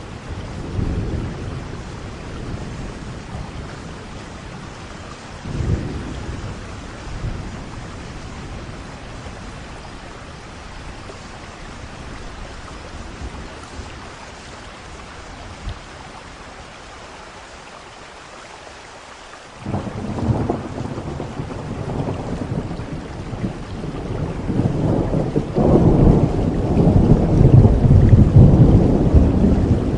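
Thunderstorm: steady rain with low rumbles of thunder about a second in and again about five seconds in. A louder thunderclap breaks suddenly about twenty seconds in and rolls on, building through the last seconds.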